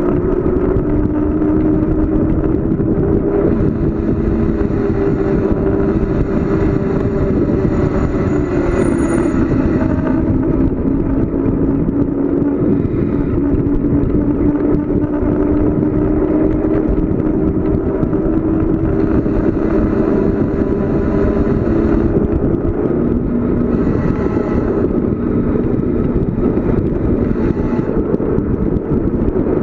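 Steady rush of wind and road noise from a bicycle descending a paved mountain road, with a low hum that slowly shifts in pitch and a higher hiss that rises and falls several times.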